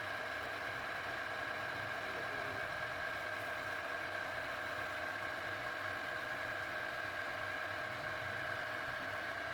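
A power tool's electric motor running steadily, with a constant high whine and no change in speed.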